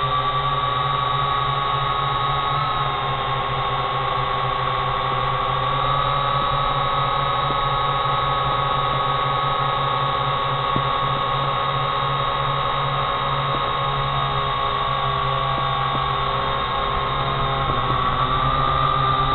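Small quadcopter drone's motors and propellers whining steadily in flight, the pitch dipping a little and rising again near the end.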